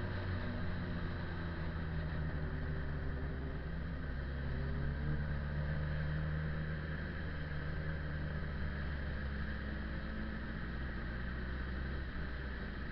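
Motorcycle engine running steadily while riding, a continuous low drone with small rises and falls in pitch, over a steady rush of road and wind noise.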